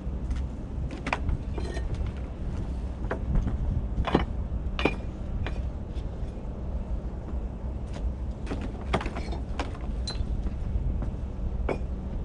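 Irregular knocks, clinks and short scrapes of bricklaying: a trowel working mortar and bricks being set and tapped into place, over a steady low hum.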